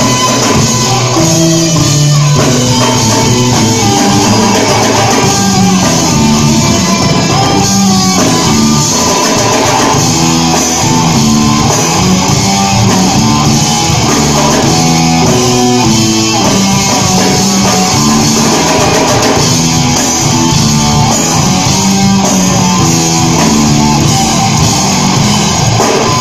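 Live rock band playing an instrumental passage without singing: guitar and drum kit, loud and steady.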